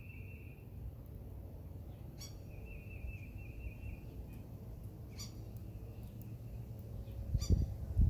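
Birds calling: three short, sharp calls a few seconds apart, and two steady, high, buzzy trills of a second or more. Under them a low rumble that grows louder near the end.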